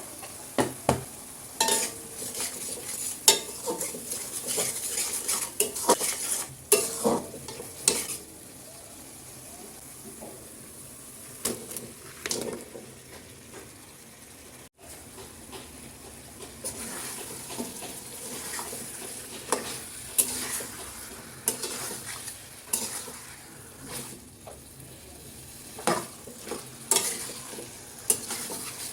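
Food sizzling as it fries in a pan, with a cooking utensil stirring and knocking against the pan in irregular clinks and scrapes.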